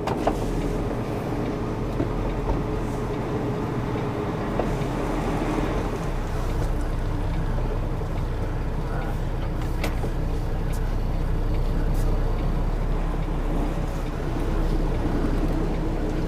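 Tractor-trailer's diesel engine running steadily at low speed while the rig is manoeuvred into position, with a few faint clicks.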